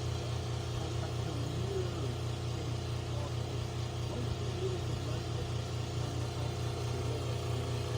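An engine running steadily at a low, even hum, with faint voices in the distance.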